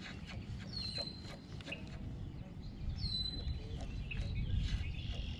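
A bird calling outdoors: two short whistles that slide down and level off, about a second in and again near the three-second mark, with fainter chirping near the end over a low rumble.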